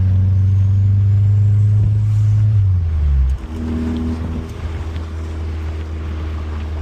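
Audi car engine running while driving, a steady hum that falls in pitch and gets quieter about three seconds in, then settles at a lower, steady drone.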